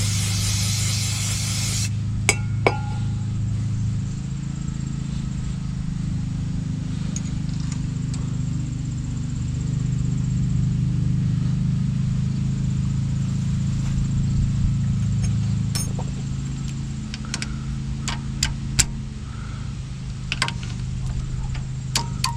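An aerosol can of cleaner sprays in one hiss for about two seconds at the start. Then come scattered sharp metallic clinks of tools and parts, over a steady low hum.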